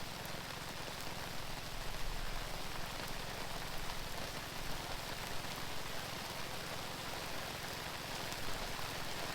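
Steady rain falling, with the patter of scattered drops.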